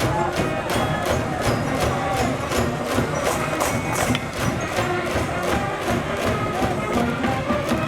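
School brass band cheering from the stands, playing a tune over a steady drumbeat of about four beats a second.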